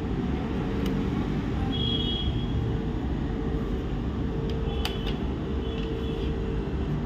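Steady low background rumble with a faint constant hum, and a few faint light clicks.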